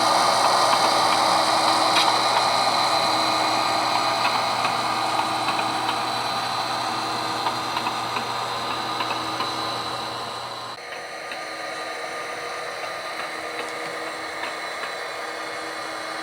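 HO scale model train running along the layout: a steady small-motor hum and wheel noise on the track, with a few light ticks. The hum stops and the sound drops in level about eleven seconds in.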